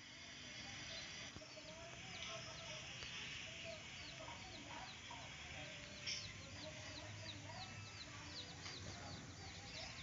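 Faint bird sounds: a steady run of short high chirps, about two or three a second, over softer, lower scattered calls.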